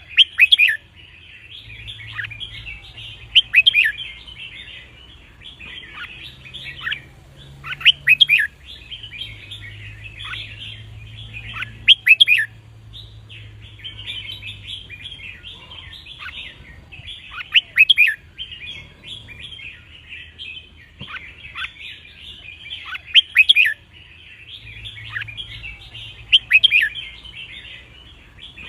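Red-whiskered bulbuls singing: a continuous chirping chatter, with a louder, clear song phrase every few seconds. This is competition-style song of the kind used to train young bulbuls and set caged birds singing.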